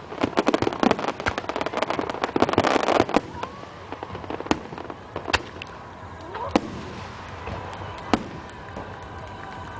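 Fireworks display: a dense barrage of rapid crackling and banging for about three seconds, thinning out to a handful of single bangs spaced a second or so apart.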